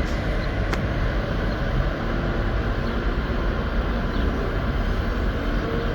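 Steady low rumble of machinery at a track worksite, with a single sharp click just under a second in.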